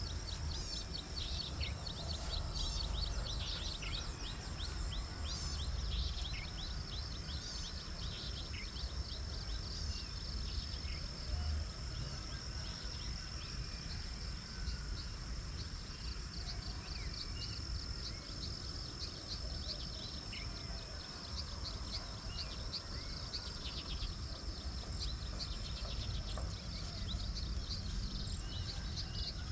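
Rice-paddy dawn chorus: a steady high-pitched drone of insects with many short bird chirps and calls scattered over it, densest near the start and again near the end, above a constant low rumble.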